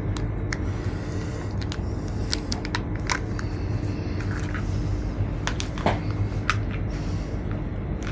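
Train carriage interior running noise: a steady low rumble and hum, with scattered sharp clicks and rattles throughout.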